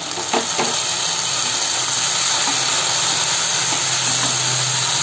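Chopped tomato and green chillies sizzling in hot oil in a steel kadhai, a steady frying hiss.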